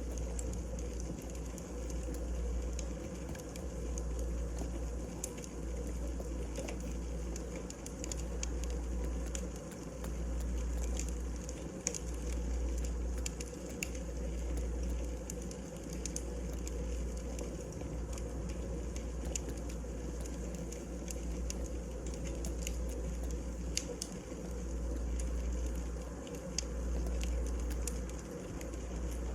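Wood fire burning, crackling with irregular sharp pops over a steady low rumble and hiss.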